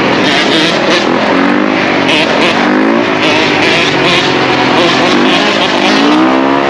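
Several dirt bike engines running and revving, their pitch climbing and dropping again a few times.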